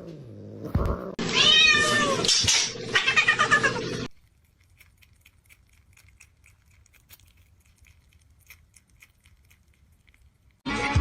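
A domestic cat meowing: one long, wavering meow, then a quick run of shorter sounds, stopping about four seconds in.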